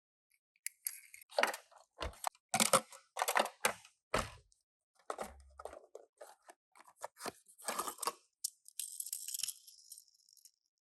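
A Tomica die-cast minicar being unboxed and handled: a run of paper-box rustles, tearing, clicks and knocks, with a longer rustling scrape about nine seconds in.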